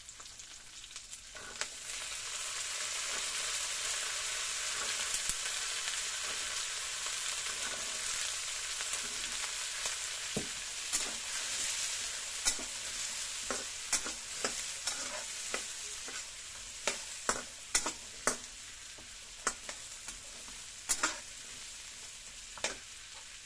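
Wet pea eggplants hitting hot oil in a wok set off a loud sizzle about a second and a half in, which slowly dies down. From midway on, a spatula scrapes and knocks against the wok again and again as the mixture is stir-fried.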